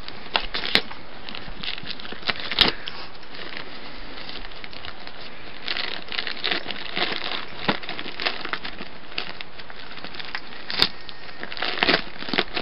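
Wrapping paper crinkling and tearing in irregular bursts as a small dog rips open a gift with its teeth and paws.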